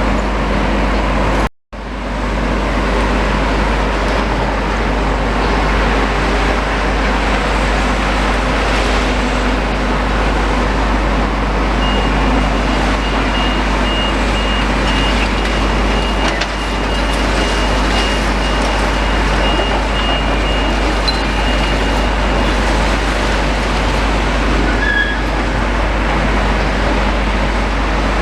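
Heavy demolition machinery running steadily in a continuous low rumble. A vehicle's reversing alarm beeps repeatedly for about ten seconds in the middle. The sound cuts out briefly once about a second and a half in.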